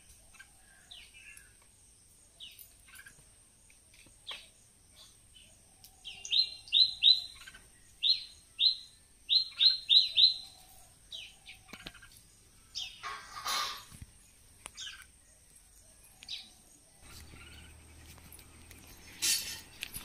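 Small bird chirping: scattered single chirps, then a quick run of about ten short, sharp chirps between about six and ten seconds in. A brief scuffing noise comes about thirteen seconds in.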